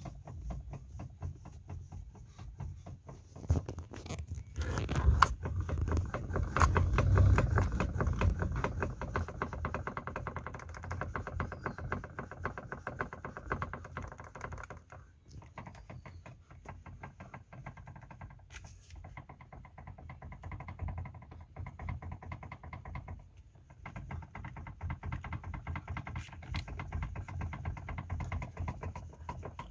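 Knocking in the steering of a 2020 Kia Picanto Ion: a dense run of quick knocks and clicks, loudest a few seconds in, over a low drone. The noise is thought to come from the steering bushing.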